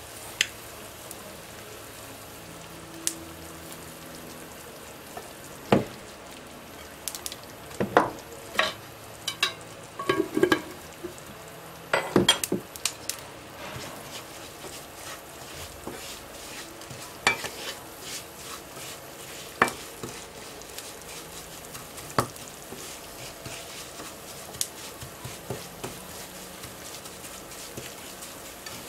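Breadcrumbs frying in a pan while being stirred: a steady low sizzle under irregular sharp scrapes and taps of the stirring utensil against the pan, busiest in the first half.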